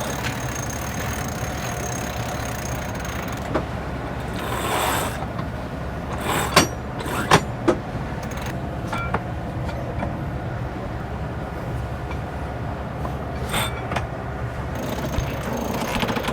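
Sailing yacht's inboard engine running steadily at a low hum, with a few sharp clicks and knocks partway through and a brief hiss just before them.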